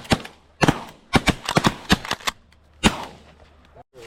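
Several shotguns firing in a rapid volley, about a dozen shots packed into roughly three seconds, with a last lone shot near the end.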